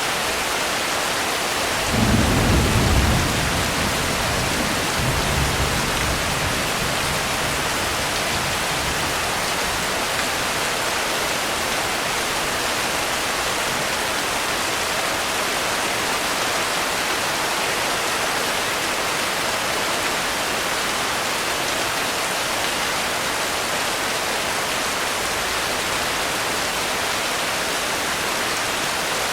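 Steady rain falling, with a low rumble of thunder about two seconds in and a fainter rumble a few seconds later.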